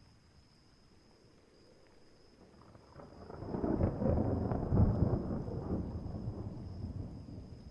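A roll of thunder: a deep rumble that builds about three seconds in, is loudest a second or two later, then slowly fades.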